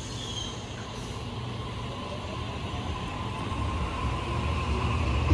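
Sydney Trains B-set electric passenger train rumbling at the platform, the low rumble growing steadily louder, with a faint whine coming in about halfway through.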